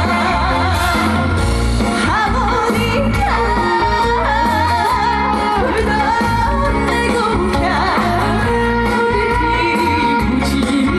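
A female vocalist singing a trot song live, with vibrato, over a loud backing track.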